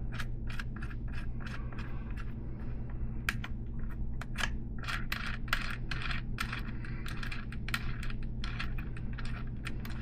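Small steel hub parts (axle nuts, washers and cone nuts) clinking and clicking irregularly as a 3/8" solid-axle BMX hub is unscrewed and taken apart by hand. A steady low hum runs beneath.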